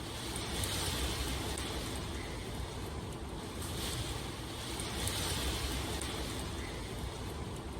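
Steady rushing water noise with a low rumble beneath, swelling and easing every couple of seconds.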